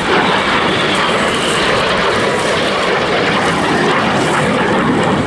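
BAE Hawk T1 jet trainers passing overhead in a display, their Adour turbofans making a steady, loud rushing jet roar.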